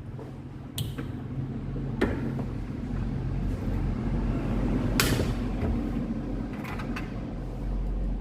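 Hand work on a motorcycle engine: sharp knocks and clicks as parts and tools are handled, three of them standing out (about a second in, at two seconds, and the loudest at five seconds), over a steady low hum.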